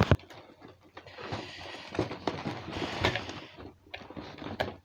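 Snack packets and packaging being handled, rustling and crinkling irregularly with small knocks.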